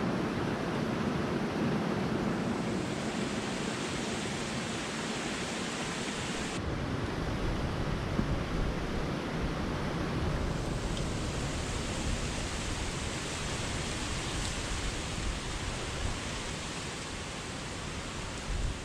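Waterfall's rushing water, a steady even roar, with an abrupt shift in its character about a third of the way through.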